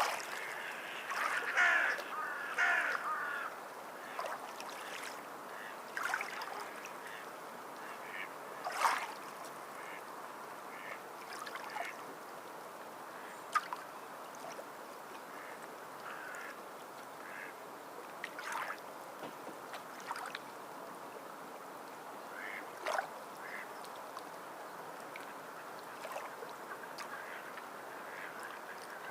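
Steady wash of sea water with scattered short bird calls over it, busiest in the first few seconds and then every few seconds.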